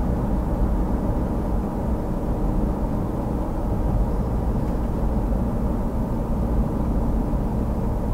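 Steady engine drone and road rumble inside the cabin of a Toyota 4Runner with a turbocharged 3RZ-FE 2.7-litre four-cylinder, cruising at light throttle after a moderate acceleration.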